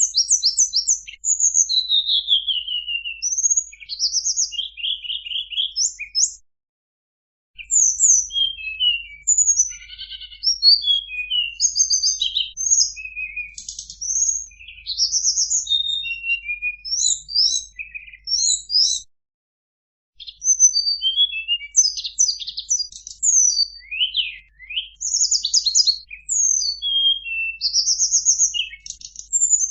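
Tledekan gunung song: a rapid run of varied high-pitched chirps, trills and short whistles, broken by two pauses of about a second, one about a quarter of the way in and one about two-thirds in.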